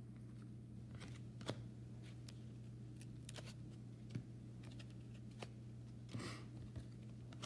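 Faint clicks and light slides of trading cards being flipped through by hand, with a brief rustle about six seconds in, over a steady low hum.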